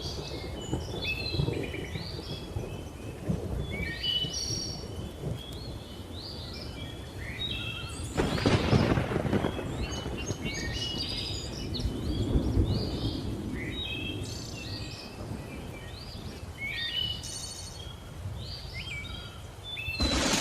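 Thunderstorm: thunder rumbles low throughout, with a louder clap about eight seconds in, over the hiss of rain, while jungle birds keep calling with short repeated chirps and whistles.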